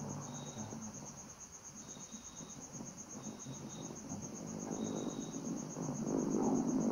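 A cricket chirping in a fast, steady, even pulse of high-pitched notes. A louder rush of noise builds near the end.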